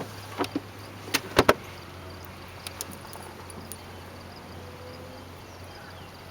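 A handful of sharp knocks and clacks as a caught bluegill is put into a fish box in the boat, the loudest two close together about a second and a half in, over a steady low hum.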